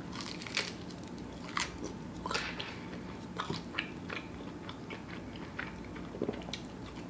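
A person chewing a mouthful of vegan sushi bake wrapped in roasted seaweed, with scattered small crunches and mouth clicks at irregular intervals.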